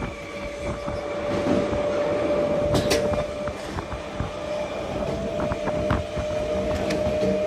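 Electric suburban local train running along the track, heard from aboard by an open door: a steady rumble of wheels on rails with a steady whining tone, and a few sharp clicks around the middle and later on.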